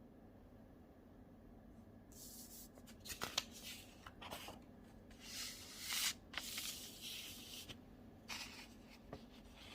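Soft, irregular rustling and scratching with a few sharp clicks, starting about two seconds in and dying away near the end, over a faint steady hum.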